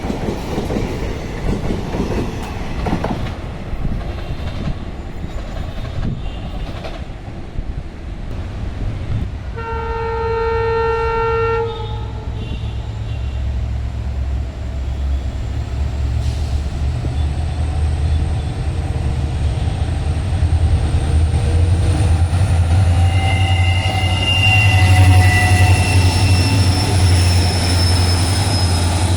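Train wheels rattling over the rails, then a locomotive horn sounds for about two seconds about ten seconds in. After that a locomotive's low, steady drone builds as the train approaches, with a fainter horn-like tone sounding again near the end.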